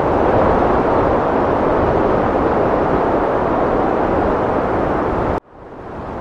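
Heavy wind rushing steadily with a deep rumble. About five seconds in it cuts out abruptly and swells back in over a second, the seam where the looped recording restarts.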